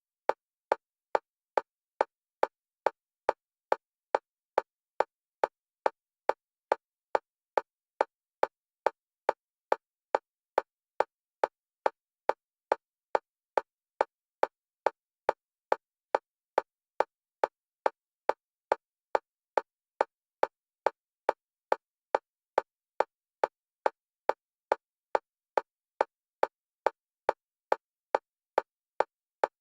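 Synthetic metronome click for EMDR bilateral stimulation: short single-pitch clicks at a steady fast pace, a little over two a second, alternating between the left and right stereo channels.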